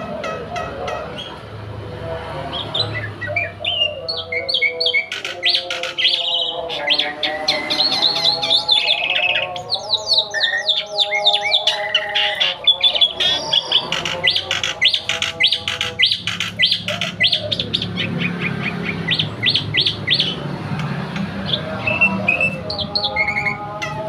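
Black-winged starling (jalak putih) singing vigorously and without pause, a varied run of rapid chirps, trills and harsher notes.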